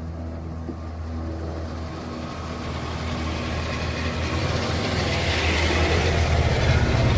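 Car engine and exhaust running steadily, then growing louder and rougher over the last few seconds.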